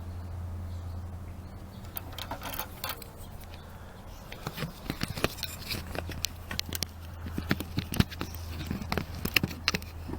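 Hands working on small string-trimmer parts: a string of light clicks, taps and scrapes from about two seconds in, over a steady low hum.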